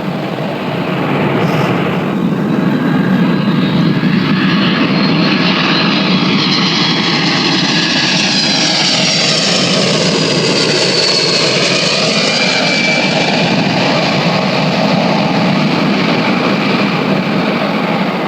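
Airliner passing low overhead: a loud steady engine roar that swells over the first couple of seconds and holds, with a high whine and a sweeping, phasing quality strongest around the middle as it goes by.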